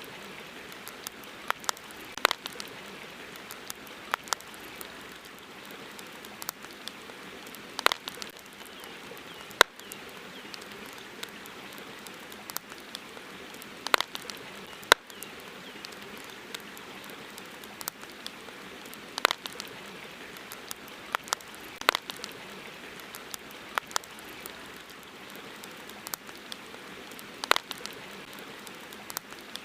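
Wood campfire crackling, with irregular sharp pops and snaps, a few every couple of seconds, over a steady hiss.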